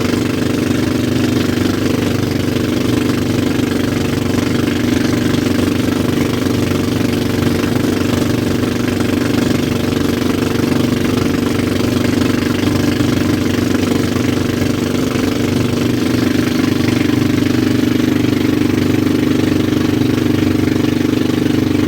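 Engine of a motorized bangka (outrigger boat) running steadily under way, a loud constant drone with an even hiss over it.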